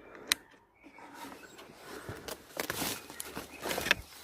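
Footsteps and rustling through dense undergrowth: a sharp snap about a third of a second in, then several short crackling brushes in the second half.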